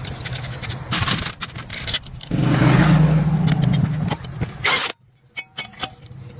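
A motor running with a low hum, growing much louder for about two seconds in the middle, then cutting off abruptly, leaving only a few scattered clicks.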